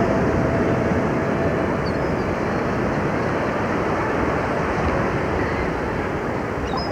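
Steady rushing of surf and wind on the microphone, with a couple of faint high chirps about two seconds in and near the end.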